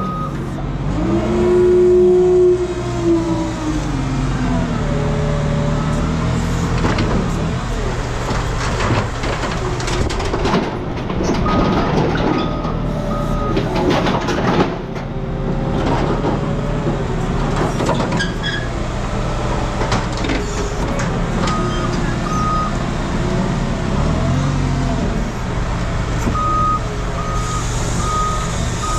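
Heavy diesel machinery running in a scrap yard: a steady engine drone with hydraulic whine rising and falling several times and repeated metal clanks and knocks. A reversing beeper starts sounding in short on-off beeps about twelve seconds in and comes back near the end.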